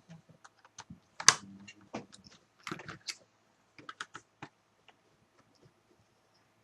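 Plastic laptop cover panels being set on the case and pressed into place: a run of short clicks and knocks, the loudest one about a second in, thinning out after about four and a half seconds.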